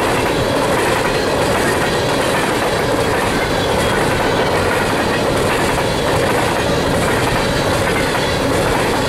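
Empty coal gondolas of a unit coal train rolling past close by: a steady, continuous noise of steel wheels running on the rails.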